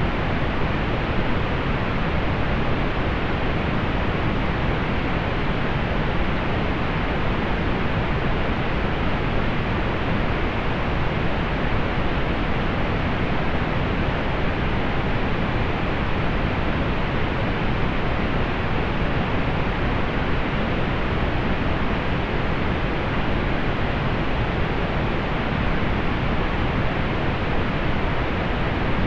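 Steady pink noise: an even, unchanging hiss, heavier in the low end and soft above the treble, with no rises, breaks or other sounds.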